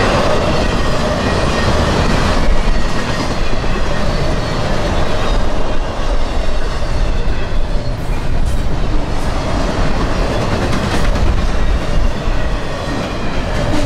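Freight train cars rolling past at close range: a steady rumble of wheels on rail with scattered clacks as the wheels cross rail joints.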